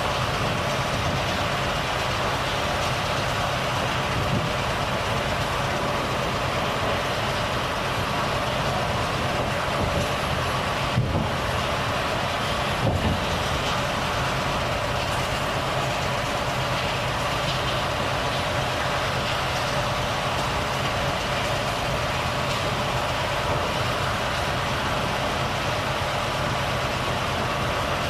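Volvo FH truck driving along, its diesel engine running steadily under the road and tyre noise, with a couple of brief knocks about halfway through.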